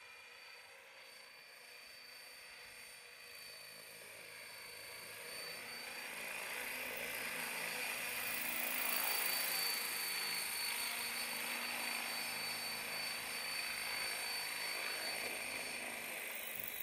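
Blade 550 X RC helicopter in flight: the rush of its rotor blades with a steady high motor whine. It grows louder over the first half as it comes nearer, then holds.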